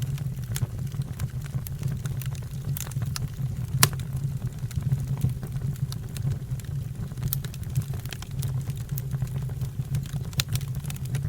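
Fire crackling, with irregular sharp pops and snaps over a steady low rumble. One louder pop comes about four seconds in.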